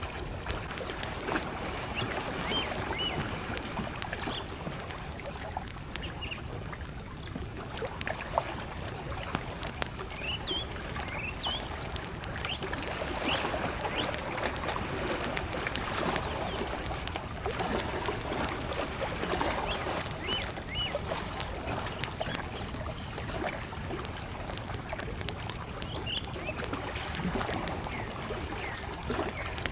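Campfire crackling, with many small sharp pops, over small lake waves lapping at the shore. Birds chirp faintly now and then.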